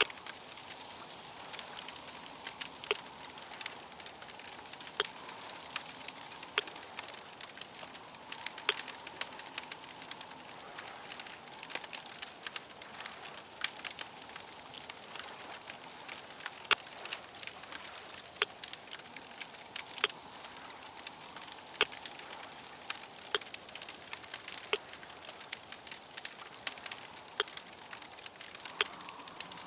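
Crackling fire: a steady hiss with frequent, irregular sharp pops and snaps.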